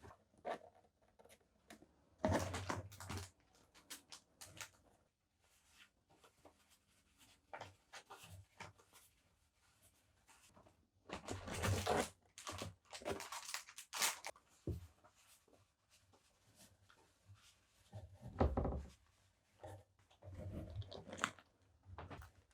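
Paper and plastic stationery packaging being handled, in irregular bursts of rustling and tearing, with a soft low thump late on.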